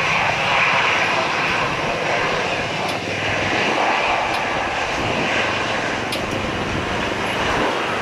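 Airbus A320-214's CFM56 turbofan engines at takeoff power: steady, loud jet noise with a strong hiss in the upper range.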